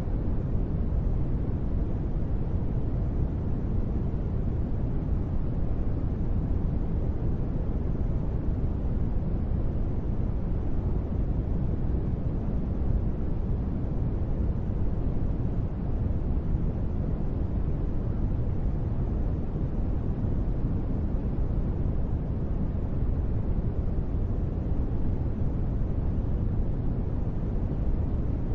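Steady, unbroken deep noise with most of its weight in the low end and no separate drops or patter, from a sleep-noise track sold as gentle rain white noise.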